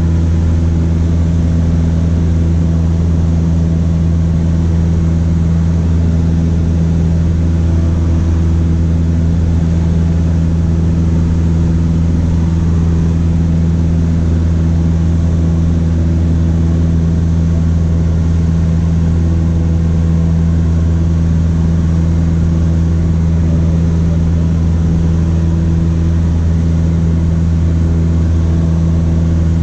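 Cessna 152's four-cylinder Lycoming O-235 engine and propeller droning steadily in flight, heard from inside the cockpit, with no change in power.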